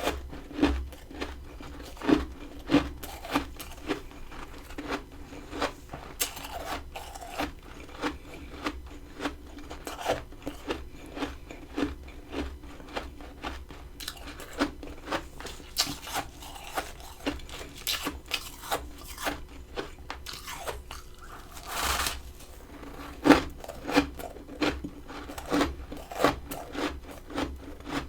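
Close-up chewing and crunching of freezer frost: crisp crunches about once a second, with one longer drawn-out crunch a little past the middle.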